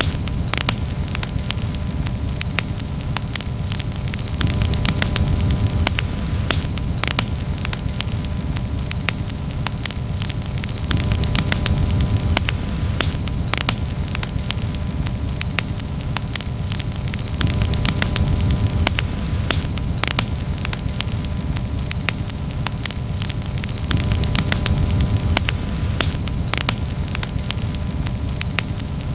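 Wood campfire crackling, with frequent sharp pops and snaps over a steady low rumble.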